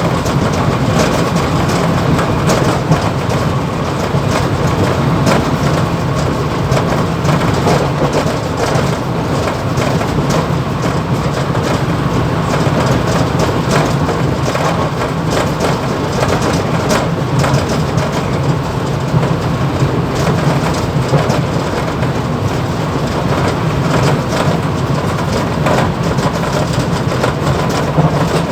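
Mumbai local EMU train running on the line, heard from inside the motorman's cab: a steady low hum and running noise under a dense, continuous rattle from the cab shaking.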